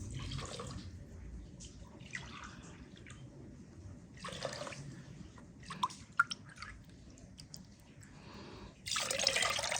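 Water poured from a glass into a pot for sugar syrup, splashing in three short pours about two seconds apart, then a few light clicks and a louder, longer splash near the end.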